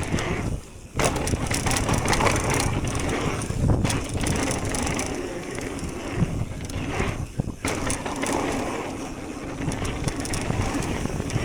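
Mountain e-bike riding down a dirt trail: steady rough noise of knobby tyres rolling over dirt and the bike rattling, with a brief lull about a second in.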